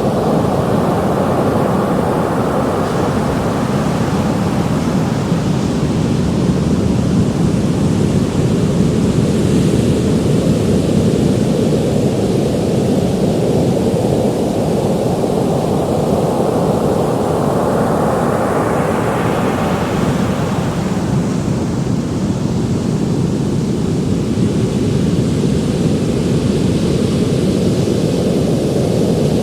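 Ocean surf: a continuous rush of waves, with one wave building up and breaking about two-thirds of the way through.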